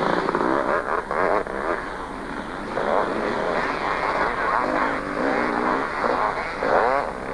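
Two-stroke motocross bikes racing: several engines revving up and down in overlapping rising and falling pitches as riders accelerate, shift and back off.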